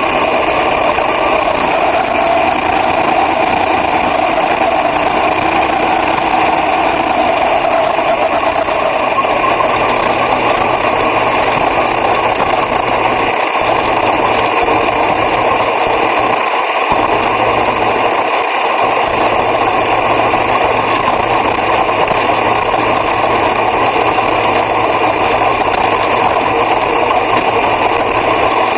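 Racing car engine running hard at steady high revs, a continuous buzzing note that dips slightly in pitch in the first few seconds and then holds.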